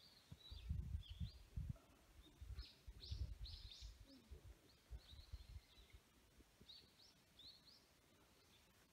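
Small birds chirping in short, high calls scattered throughout. Irregular low rumbling thumps on the microphone during the first six seconds are louder than the birds.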